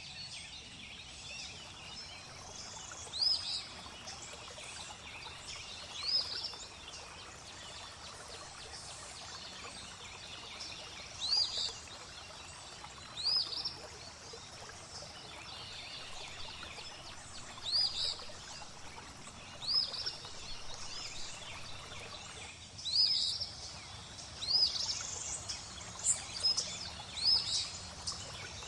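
A songbird repeating a short, high call every couple of seconds, several in quick succession near the end, over a steady trickle of flowing water.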